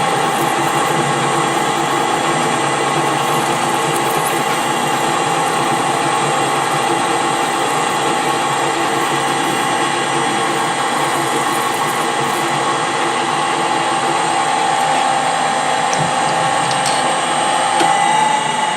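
Metal lathe running with a parting tool cutting through steel bar stock: a steady mechanical whine. Near the end the pitch rises a little.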